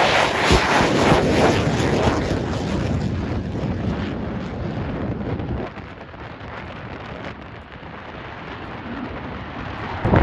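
Jet noise from an F-35A Lightning II's single turbofan engine as the jet flies away: a broad rushing noise, loud at first, that fades steadily over about six seconds.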